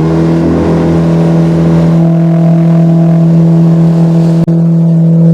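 Boat's outboard motor running at a steady, high throttle, its pitch held level after speeding up, with a brief dropout about four and a half seconds in.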